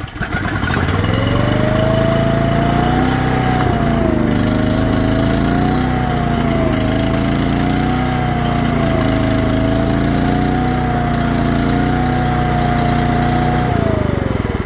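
Small gasoline engine of a truck-mounted engine-driven welder, just started and running, its speed surging gently up and down before it winds down and stops near the end. It only keeps running with the choke partly out, a sign that it is not running right.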